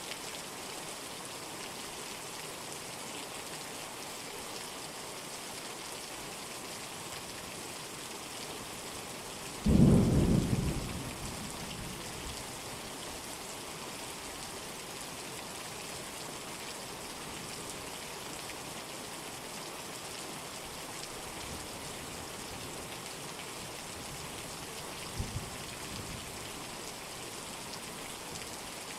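Steady rain. About ten seconds in a sudden loud clap of thunder rumbles and fades over a couple of seconds, and a much fainter thunder follows near the end.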